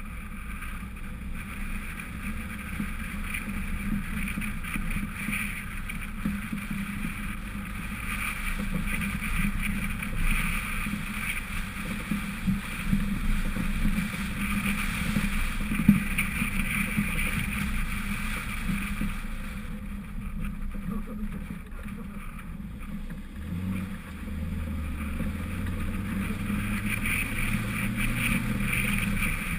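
1999 Honda CR-V's four-cylinder engine running while driving off-road, heard through a GoPro, with bumps and rattles from the rough ground. A sharp knock comes about halfway through, and a climbing engine note can be heard near the end.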